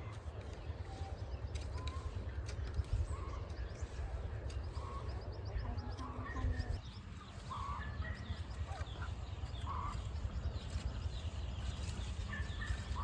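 Steady low wind rumble on the microphone, with scattered short bird calls every second or two.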